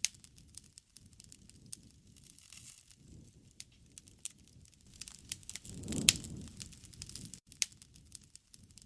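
Wood fire crackling, with irregular sharp pops over a low steady burning sound. It swells louder about six seconds in with one loud pop.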